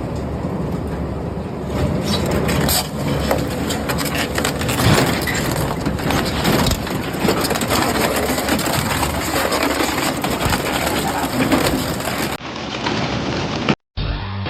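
Industrial metal shredder crushing and tearing scrap metal: a continuous dense crunching with frequent sharp cracks and snaps. About two seconds before the end it cuts off abruptly, followed by a duller stretch and a brief dropout.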